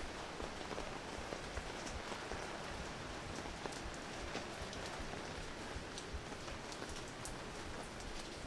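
Steady rain falling on the ground and nearby surfaces, with scattered sharp drips close by.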